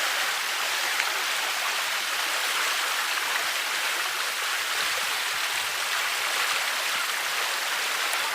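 Stream water rushing steadily over rocks, a constant even hiss with no breaks.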